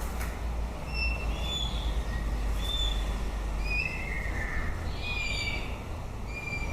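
White-rumped shama singing: a string of short, clear whistled notes at varied pitches, over a steady low rumble.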